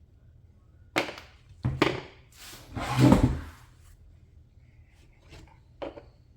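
Knocks and clunks of RC car parts being handled during a teardown: a sharp knock about a second in, two more just after, a longer, louder clatter around three seconds, then two light taps near the end.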